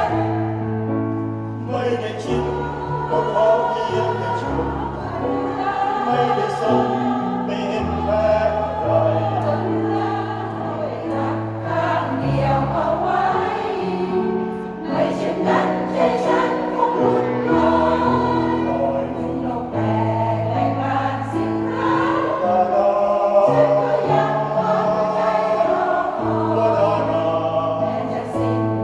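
A senior choir singing a song in harmony, many voices together, over an accompaniment of held low notes that change every second or two.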